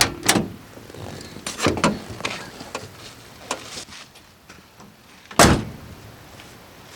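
A series of knocks and clatters, then one heavy slam about five and a half seconds in, the loudest sound.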